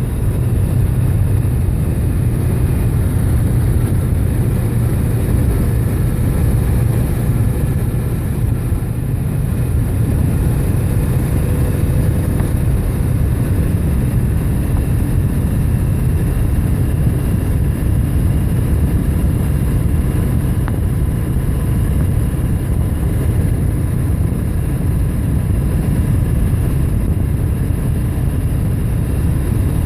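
Motorcycle riding at a steady cruising speed: a low, even engine drone under heavy wind noise, with no change in pace.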